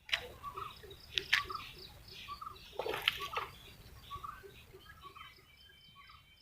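Water splashing: a few sharp splashes, the longest about three seconds in, with birds chirping throughout.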